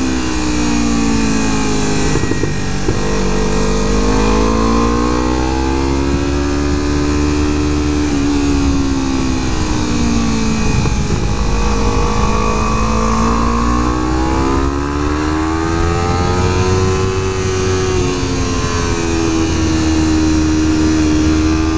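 Kawasaki Ninja 300's parallel-twin engine under way, its pitch rising and falling smoothly several times as the rider opens and closes the throttle, over a steady low wind rumble.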